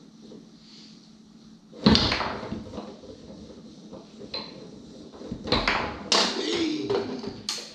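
Foosball play on a Tornado table: one sharp, loud knock about two seconds in, then a quick run of knocks and clatter near the end as the ball is struck and the rods and players bang.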